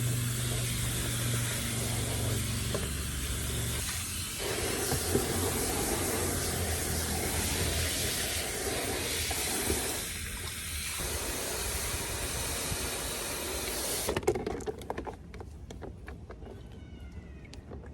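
Water running steadily, as from a tap, cutting off suddenly about 14 seconds in, followed by a few soft clicks.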